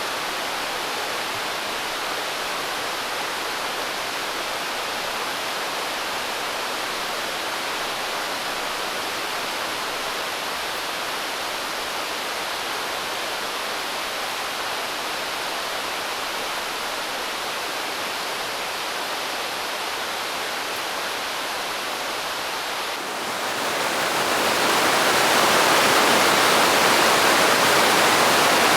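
Steady rushing of a large waterfall in full snowmelt flow, an even wash of falling water with no other sound over it. About 23 s in it swells over a couple of seconds to a louder, fuller rush and holds there.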